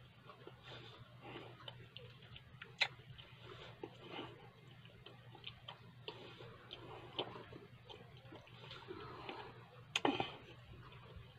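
A man chewing food with his mouth closed, close to the microphone: a run of soft, irregular wet mouth clicks and smacks, with two sharper clicks about three seconds in and near the end, over a faint steady low hum.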